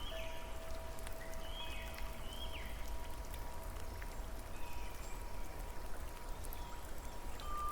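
Nature soundscape of flowing water with scattered dripping, birds chirping in short falling calls, and faint long held tones underneath.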